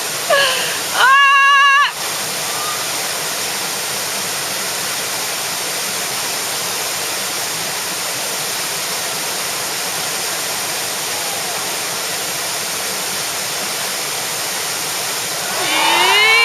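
Steady rush of whitewater in a river rapid. A short high-pitched yell comes about a second in, and a longer shout rises and falls near the end.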